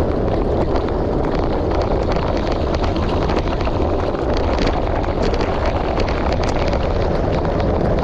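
Steady wind noise on the microphone over bicycle tyres rolling on a gravel road, with scattered small clicks and rattles from the stones.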